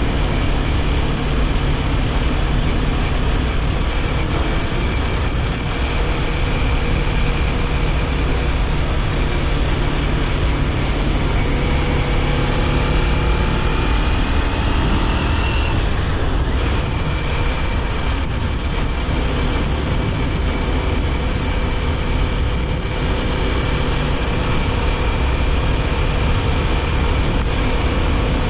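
Kawasaki Ninja 400's parallel-twin engine running under way, with wind and road rush. The revs climb slowly, drop suddenly a little past halfway, then hold steady.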